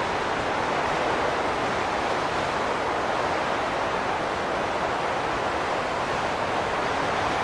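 Wind blowing as a steady, even rush of noise, strongest in the middle range, with no sudden gusts.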